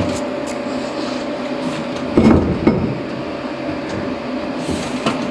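A few light metal knocks and clinks from handling metal parts and tools, over a steady shop hum: one at the start, two close together a little past two seconds, and one near the end.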